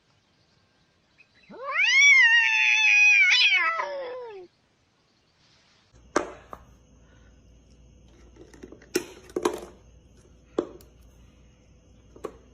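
A cat giving one long, loud meow of about three seconds, rising in pitch at the start and falling away at the end. A few seconds later come several short knocks or taps over a faint hum.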